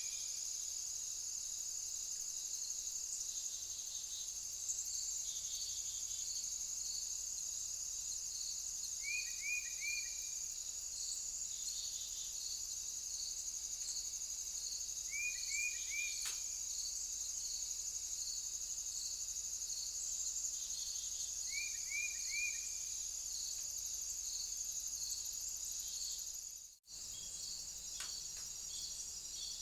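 Steady high-pitched chorus of insects trilling, with a bird repeating a quick three-note call about every six seconds. The sound drops out for a moment near the end.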